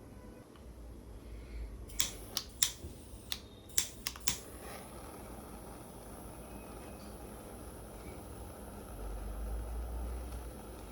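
About seven sharp clicks in quick succession, then a steady faint hiss.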